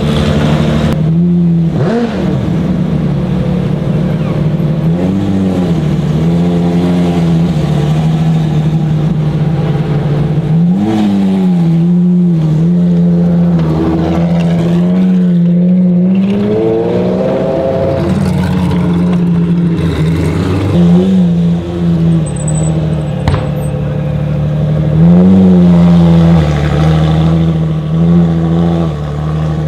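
Ferrari FXX K Evo's 6.3-litre V12 idling, with short throttle blips every few seconds that rise and fall back to idle.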